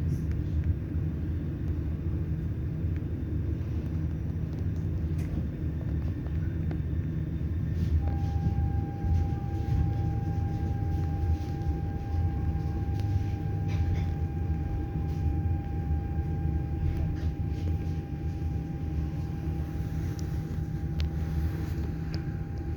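Passenger train running along the track, heard from on board: a steady low rumble, with a thin steady whine that joins about a third of the way in and a few faint clicks.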